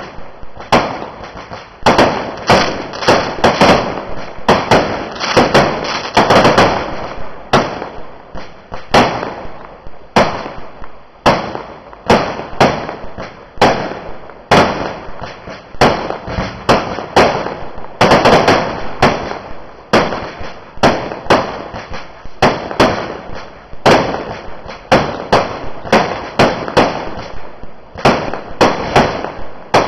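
Fireworks going off in a continuous barrage: rapid sharp bangs, several a second, with crackling between them.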